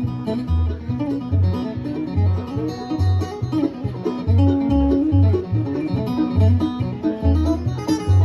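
Acoustic string band playing an instrumental break in bluegrass style: plucked-string lead and rhythm over steady bass notes on the beat.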